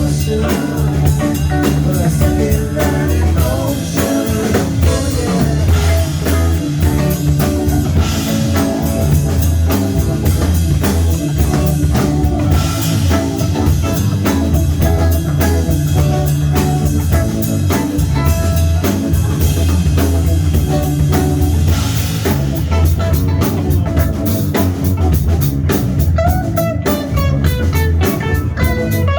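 Live rock band playing with guitar and drum kit over a steady bass line.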